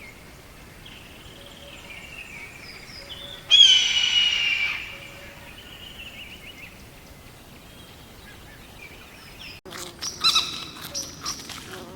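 Birds calling: faint chirps, then one loud call lasting about a second a few seconds in. After a sudden cut, a run of short, loud calls follows near the end.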